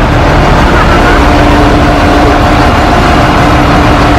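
Diesel engine of a heavy construction machine, likely a bulldozer, running loud and steady: a dense low rumble with an even hum on top.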